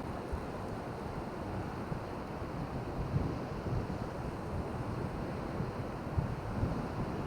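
Wind buffeting the microphone in irregular low gusts over a steady rush of surf.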